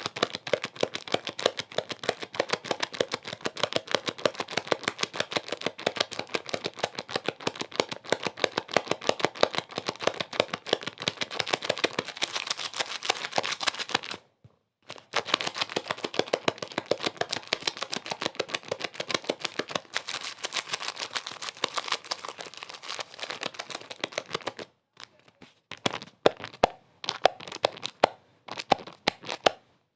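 Dense, rapid crackling clicks that stop for about half a second some 14 seconds in, then thin to scattered, sharper clicks over the last five seconds.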